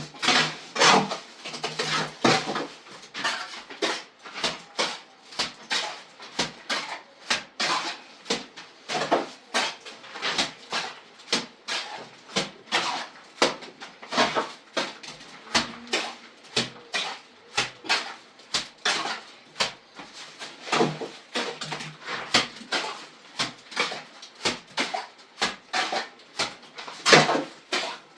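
Irregular run of short knocks and clatter, roughly two or three a second.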